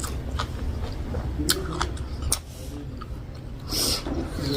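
Close-up eating sounds: chewing with sharp wet mouth clicks, over a steady low hum.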